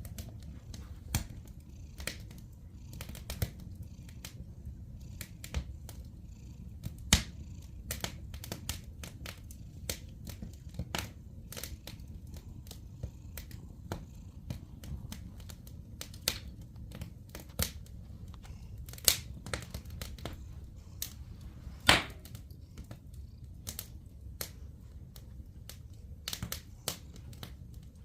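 Wood fire crackling, with irregular sharp pops; the loudest come about seven seconds in and near twenty-two seconds. Underneath, a cat purring steadily as a low rumble.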